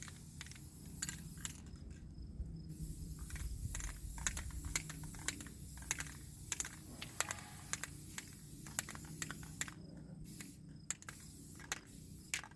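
Aerosol spray paint can spraying in long hissing passes, broken by short pauses about two seconds in and a few times near the end, with irregular sharp clicks and taps throughout.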